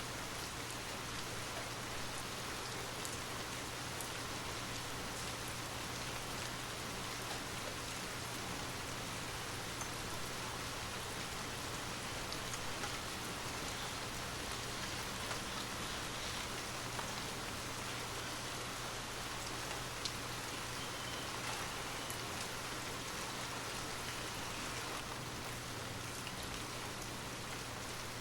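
Steady rain falling, a constant hiss with scattered drop ticks, over a low steady hum.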